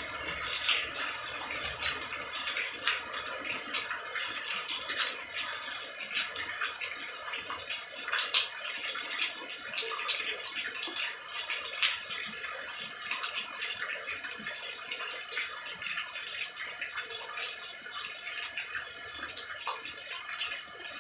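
Rain falling: a steady wash of rain with many separate drops and drips landing irregularly throughout.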